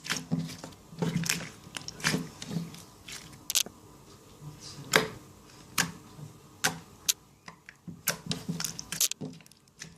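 Thick clear slime being squeezed and worked by hand, giving irregular sharp wet pops and clicks, roughly one or two a second.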